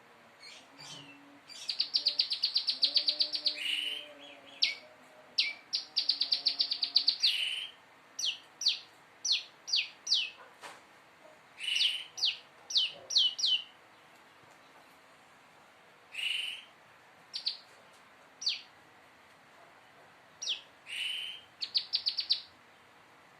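A prenjak lumut songbird practising its rapid-fire 'nembak' song. It sings high, fast trills of about ten repeated notes a second, mixed with single sharp down-slurred chirps, in phrases broken by short pauses.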